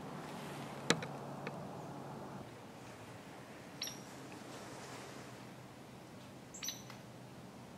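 Quiet outdoor ambience with a low hum that fades out a couple of seconds in, a single sharp click about a second in, and two short, high bird chirps, one midway and one near the end.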